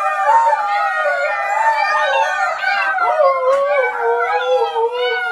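Dog howling: a continuous wavering howl that rises and falls in pitch without a break.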